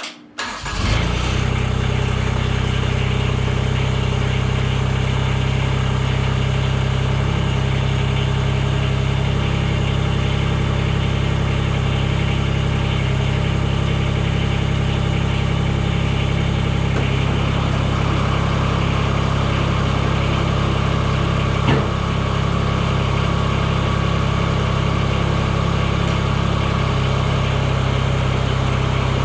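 Mahindra eMax 20S compact tractor's diesel engine running steadily at an even speed, coming in sharply within the first second. A single brief click a little past two-thirds through.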